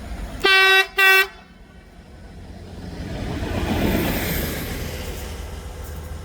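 A train horn sounding two short blasts, followed by the noise of a train swelling as it approaches and passes, loudest about four seconds in.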